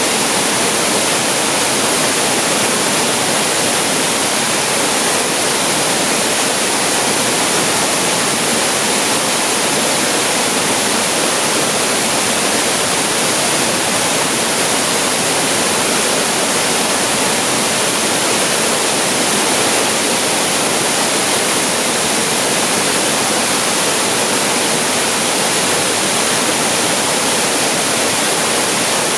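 Waterfall pouring steadily, a continuous even rush of water with a strong hiss.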